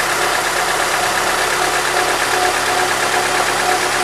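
GM Monza's four-cylinder engine idling steadily.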